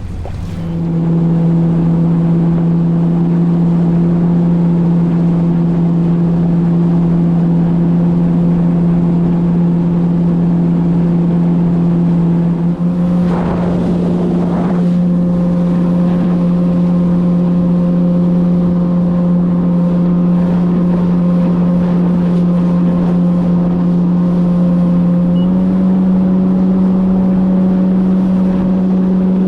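Personal watercraft (jet ski) engine running at a steady cruising speed, a loud even drone. Partway through there is a brief rush of noise, and near the end the pitch steps up slightly as the throttle opens a little.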